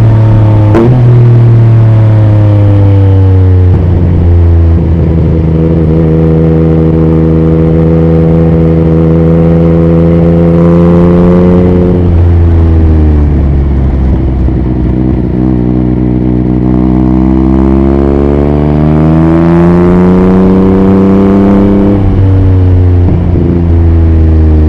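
2021 Yamaha MT-09's three-cylinder engine through an Akrapovic racing exhaust, heard on board at highway speed with wind noise. The engine note holds steady, falls away about halfway through, climbs under throttle for several seconds, then drops again near the end.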